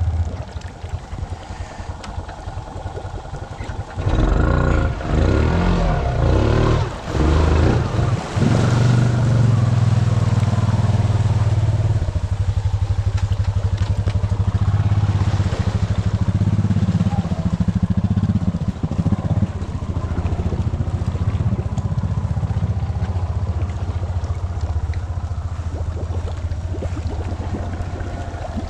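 Honda Rancher ATV's single-cylinder four-stroke engine revving in several short bursts, then held at a steady throttle.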